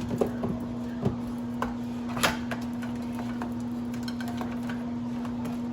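Light knocks and clicks of groceries and packaging being handled and set down, the loudest about two seconds in and fainter ticks after, over a steady low hum.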